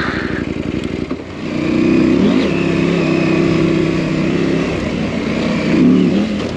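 KTM adventure motorcycle engine idling with an even beat, then pulling away about a second in: the revs rise and it runs steadily under way.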